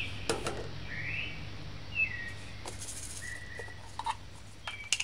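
A bird chirping: three short sliding calls roughly a second apart, with a few light clicks around them.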